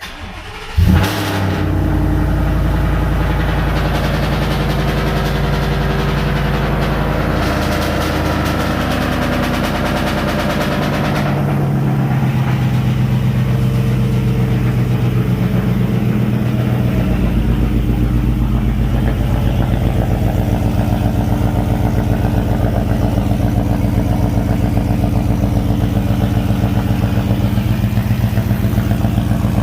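Ford 5.0 Coyote V8 with catless headers and the muffler cut off, heard from inside the cab: it fires with a loud bark about a second in, then idles with a loud rumble. About eleven seconds in, the idle drops and grows deeper.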